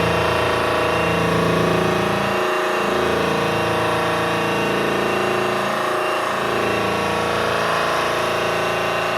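Electric polisher running steadily while buffing the aluminium fuselage skin with rouge compound. Its pitch sags briefly about two and a half seconds in and again around six seconds.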